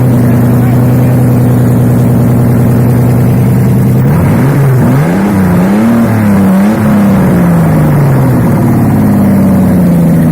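Mercedes M104 2.8-litre straight-six idling steadily, then revved in several quick blips from about four seconds in before dropping back to idle.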